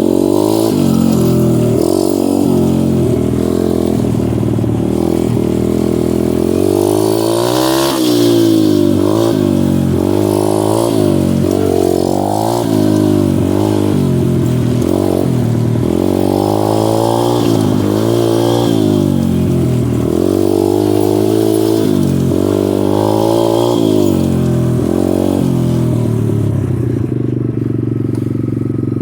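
Dirt bike engine being ridden, its pitch rising and falling every second or two as the throttle is opened and closed, settling into a steadier, lower note near the end.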